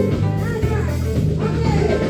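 Live band playing a funk song, with guitar prominent.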